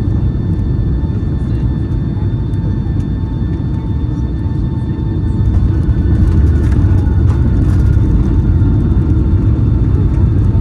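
Cabin noise inside a Boeing 757-200 near a window seat: a steady low rumble of engines and airflow, with faint steady whines above it, growing louder about halfway through.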